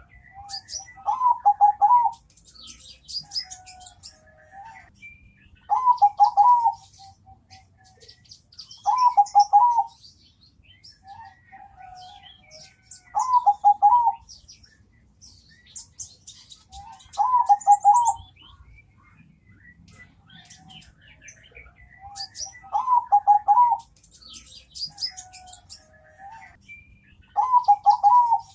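Perkutut (zebra dove) singing its deep, melodious cooing phrase seven times, about every four seconds, each a quick string of pulsed coos. Fainter high chirping of other small birds fills the gaps.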